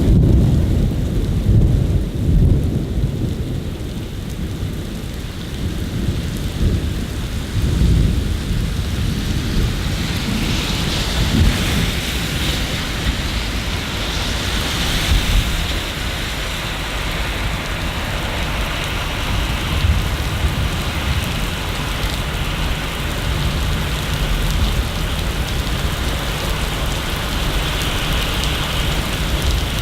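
Steady rain hissing, with low rolling thunder rumbling through the first part. The rain grows louder about ten seconds in as the thunder fades.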